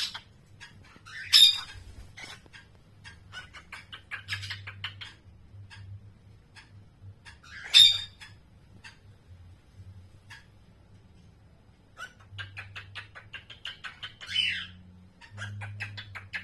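Cockatiel singing practice: quick runs of soft clicks and chatter, broken by two loud sharp chirps about a second and a half and eight seconds in, and a short falling whistle near the end.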